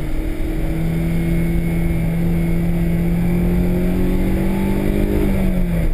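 Honda S2000's four-cylinder engine running under load, heard from inside the cabin, its pitch creeping slowly upward and then dropping suddenly about five seconds in, over steady road and tyre noise.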